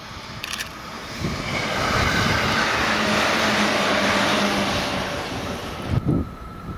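JR 211 series electric multiple unit passing at speed: the rushing, rumbling noise of its wheels on the rails swells and holds for several seconds, with a low hum under it. The sound cuts off abruptly about six seconds in.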